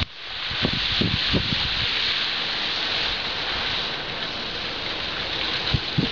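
Steady rain hissing down, with a few low gusts of wind buffeting the microphone in the first second and a half.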